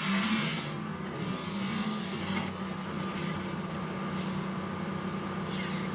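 A steady low hum with a few faint soft brushing sounds over it in the first half.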